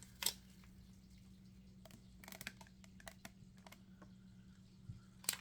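Faint, scattered light clicks and taps of packaging and small items being handled and rummaged through, over a low steady hum.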